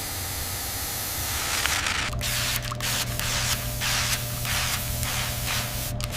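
Liquid being sprayed: a steady hiss for about two seconds, then short spray bursts about two a second, over a low steady hum.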